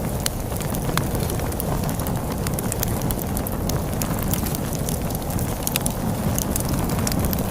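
Wood fire crackling with irregular sharp pops and snaps over a steady low rumble of storm wind.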